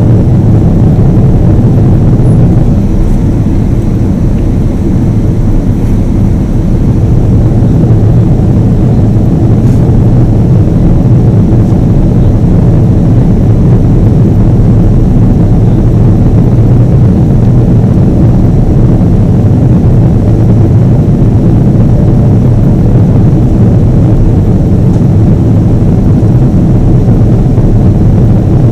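Boeing 777 jet engines running with a steady, loud, low rumble.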